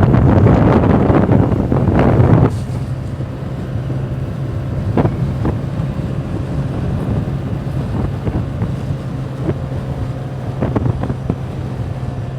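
Heavy wind buffeting on the microphone of a moving Honda Navi, easing off about two and a half seconds in. After that the bike's small single-cylinder engine runs with a steady low hum under lighter wind noise.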